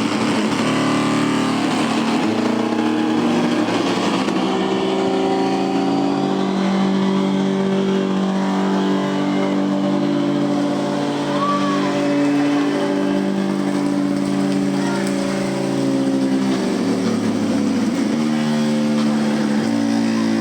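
The giant wooden norias (water wheels) of Hama turning, their wooden axles and bearings giving a sustained groaning drone of several steady tones over a steady hiss. The tones shift in pitch about three-quarters of the way through.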